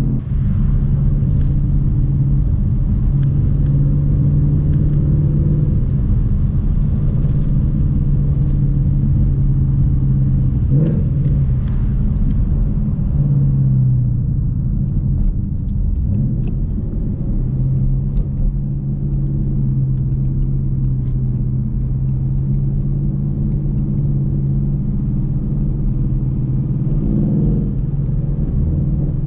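Car engine running under steady load while driving, over constant road rumble. Its pitch changes briefly a few times: about 11 and 13 seconds in, and near the end.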